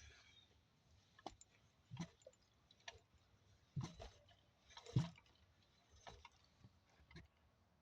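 Faint, scattered clicks and knocks, about nine of them, the loudest about five seconds in, against near silence.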